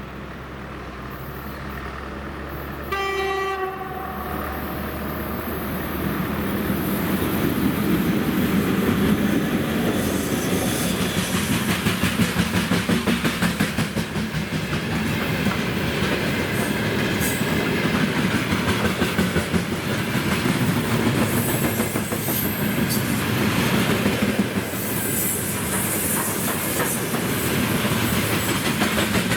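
VL80S electric locomotive sounds one short horn blast about three seconds in, then runs past hauling a freight train of gondola cars, its wheels clattering rhythmically over the rail joints and growing louder as it comes near.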